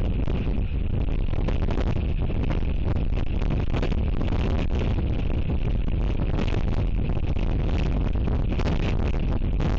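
Strong wind buffeting the outdoor nest-camera microphone: a loud, continuous rumble with constant gusty crackle.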